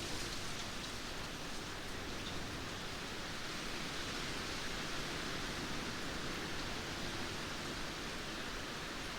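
Steady rain falling, an even wash of drops with no thunder heard.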